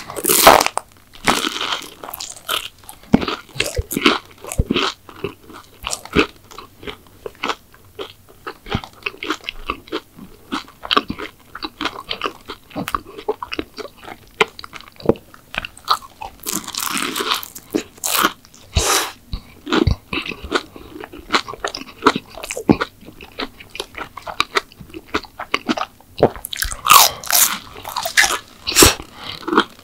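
Close-miked eating: crunchy bites into a crisp McDonald's dessert and chewing, with dense small crackles between louder crunches at the start, in the middle and near the end.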